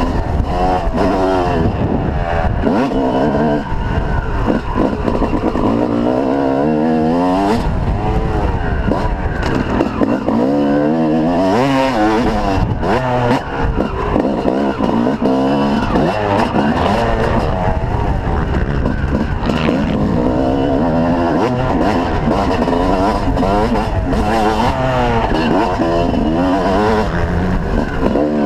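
Yamaha YZ250 two-stroke motocross bike engine revving hard, its pitch climbing and dropping back again and again as the throttle is opened and shut.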